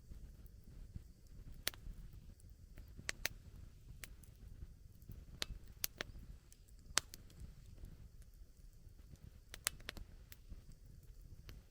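Wood campfire crackling: sharp pops and snaps at irregular intervals, roughly one every second or so, over a low steady rumble of the burning fire.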